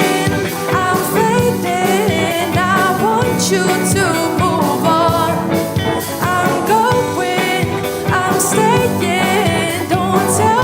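Live pop-rock band playing a section without sung words: drums keeping a steady beat under bass and a bending melodic lead line.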